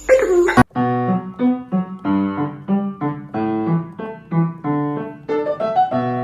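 Piano-like keyboard music, a steady run of separate notes, cutting in abruptly just over half a second in. Just before it there is a brief call that falls in pitch.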